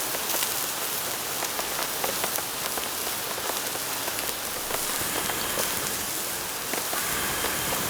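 Steady rain: an even hiss with many separate drops ticking as they strike.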